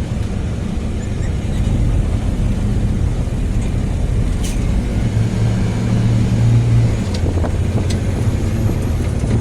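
Car driving along a road, its engine hum and tyre noise heard from inside the cabin, a little louder for a couple of seconds in the second half.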